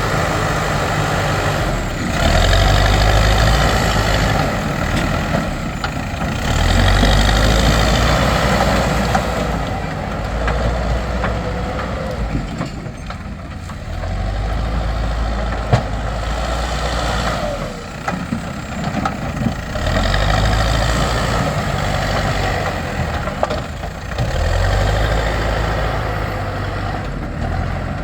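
Backhoe loader's diesel engine running, rising in revs again and again for a few seconds at a time under hydraulic load between steadier idling. A single sharp knock about sixteen seconds in.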